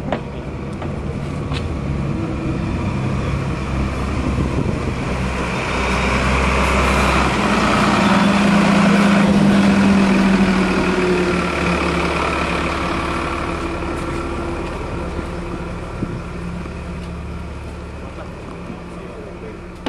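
Alerce diesel railcar pulling in alongside the platform. Its engine and running gear grow louder to a peak about halfway through, then fade as it slows to a stop.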